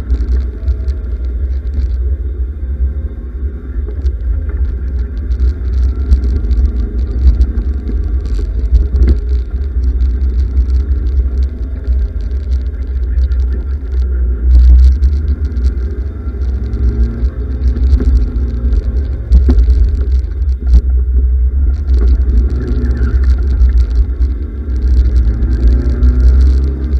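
Westfield Sei's 1.3-litre Ford crossflow four-cylinder engine revving up and falling back again and again as the car is driven hard. It is heard from an onboard camera in the open cockpit, under a heavy low rumble.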